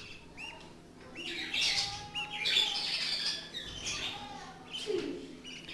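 Budgerigars chirping and chattering, with many short, high, scattered calls and squawks.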